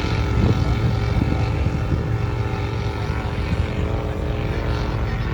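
Off-road competition 4x4 engine running under load, a steady drone with a stack of even tones.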